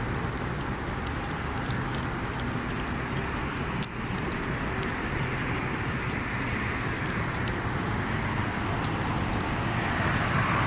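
Wood campfire burning: scattered sharp crackles and pops from the burning wood over a steady hiss and a low rumble.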